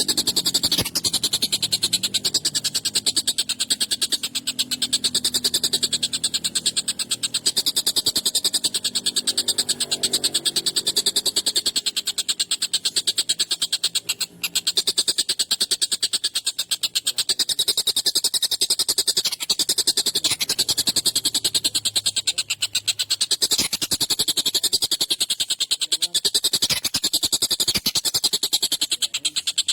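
Tengkek buto, a large kingfisher, giving a fast, harsh rattling chatter with only a brief break about halfway through.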